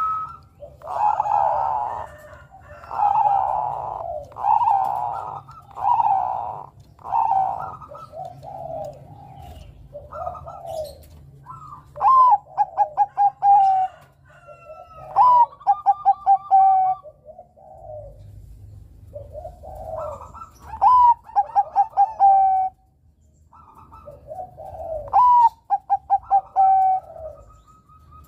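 Zebra dove of the Bangkok song line (perkutut) singing. A series of soft coos runs through the first several seconds. Then come four song phrases, each a sharp rising note followed by a fast run of short clipped coos.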